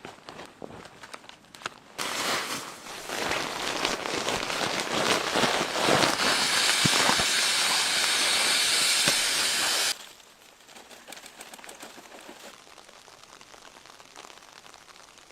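A loud hiss with faint crackling, building for several seconds and then cutting off suddenly.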